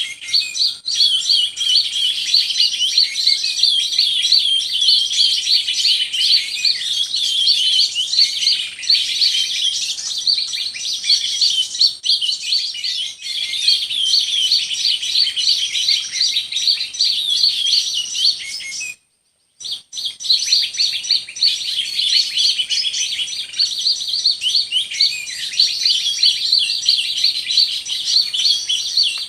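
Dense, continuous chirping and twittering of small birds, many rapid high notes overlapping, broken by a sudden half-second silence about two-thirds of the way through.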